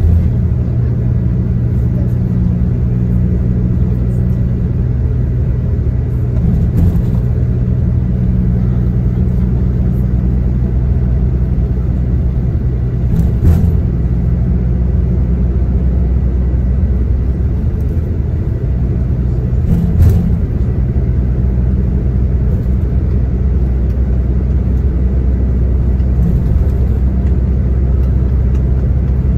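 Tour coach running on the road, heard from inside the cabin: a steady low engine drone over road noise, with a few brief knocks or rattles, the loudest about halfway and two-thirds of the way through.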